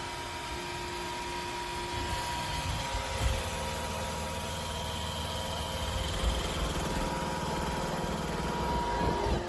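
Roomba Combo j5 robot vacuum running: a steady motor hum with a couple of light knocks along the way.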